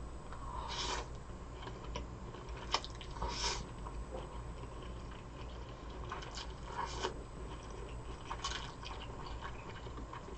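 Close-miked chewing and biting of bibim noodles and jokbal (pig's trotters), with a few short, louder wet bites spaced a few seconds apart and small mouth clicks between them.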